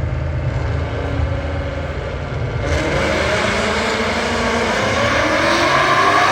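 Car engine rumbling low, then, about two and a half seconds in, a louder car engine accelerating hard with its pitch climbing, as a car launches down a drag lane.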